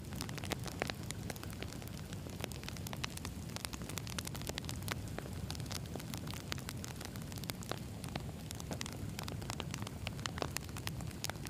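Wood campfire burning: many irregular crackles and sharp pops from the burning logs over a steady low rush of flame.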